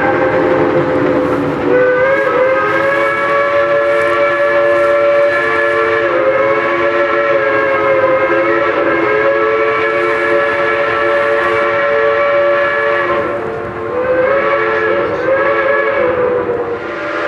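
Steam locomotive whistle blowing long, sustained chord blasts, its several tones sounding together and wavering slightly in pitch. It breaks off briefly about thirteen seconds in, then sounds again until just before the end.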